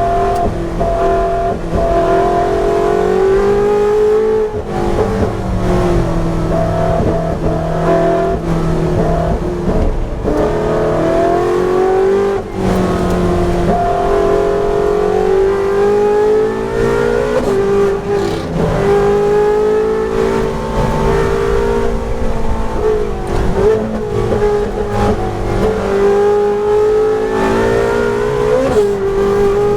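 Ferrari 458 Challenge V8 race engine running hard under load, its pitch climbing and dropping again and again as it works through the gears around the track.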